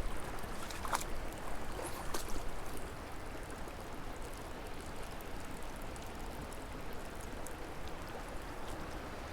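Small mountain creek flowing: a steady, even rush of water, with a few faint light ticks in the first couple of seconds.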